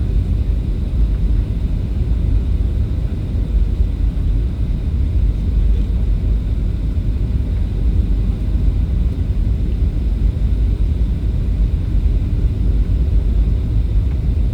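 Steady low rumble of airliner cabin noise during landing, the engines and airflow heard from inside the cabin.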